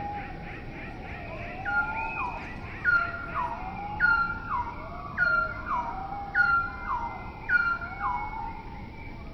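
Urban bird calls repeating about once a second, each a short note that drops sharply in pitch, over a lower call that rises and falls.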